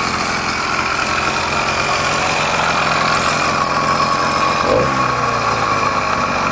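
Small engine of a motorized bicycle kit running steadily, with a brief louder blip about three-quarters of the way in.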